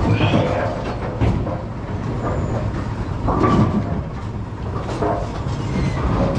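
Steady low mechanical rumble of bowling pinsetter machinery, with scattered metallic knocks and clanks.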